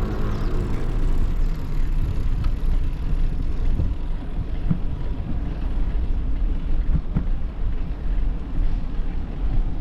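Outdoor ambience dominated by a steady low rumble that rises and falls slightly, with a few faint brief knocks.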